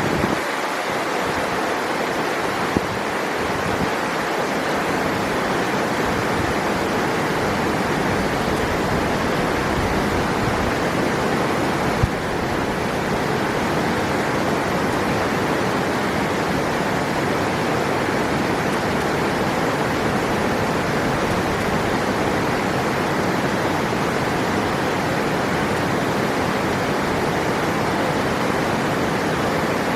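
River water rushing steadily, a constant even rush, with two brief clicks about three seconds in and near twelve seconds.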